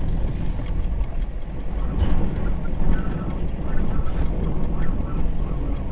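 Strong windstorm gusts buffeting the microphone: a loud, dense, rumbling noise, heaviest in the low end.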